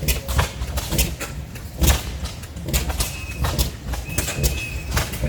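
Several old stationary oil-field engines running at once, each firing slowly in its own rhythm, so their exhaust pops and knocks overlap irregularly over a low rumble.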